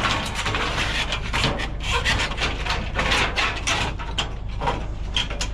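Pieces of scrap dragging and knocking against each other as they are pulled out of a junk pile: a dense run of scraping, rubbing and clattering.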